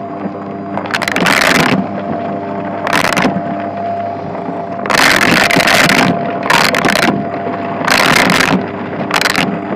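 Shark vacuum cleaner running with a steady motor hum, broken by about six surges of loud rushing noise as it is worked over a shag rug.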